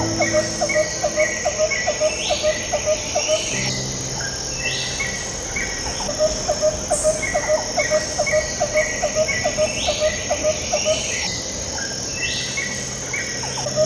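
Looping ambient background music with a nature-sound texture: a steady high insect-like hum, chirping notes and a ticking pulse of about four a second over soft held low notes, the whole pattern repeating about every seven seconds.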